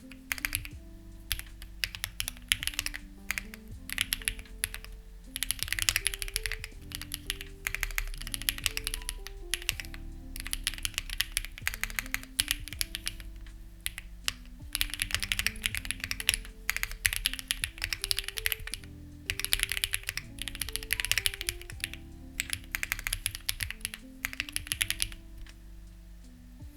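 Typing on a Lucky65 v2 mechanical keyboard with stock, unlubed HMX Ziwei switches: fast runs of keystrokes a few seconds long, with short pauses between. Background music with a slow, stepping melody plays underneath.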